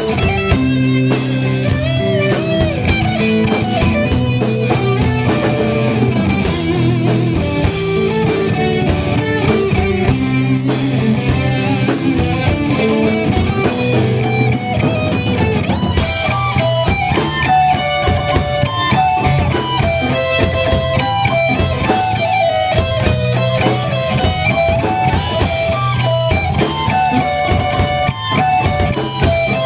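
Live thrash metal band playing with electric guitars, bass and drum kit, guitar lines stepping through fast melodic runs over a steady beat. The drums become more prominent about halfway through.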